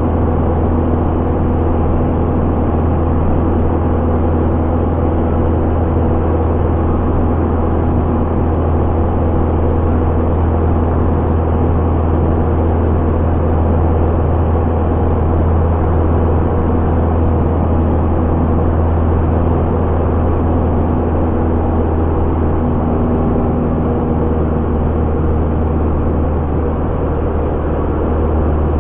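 Piper Warrior light aircraft's four-cylinder Lycoming engine and propeller droning steadily in flight, with a strong low hum and no change in pitch.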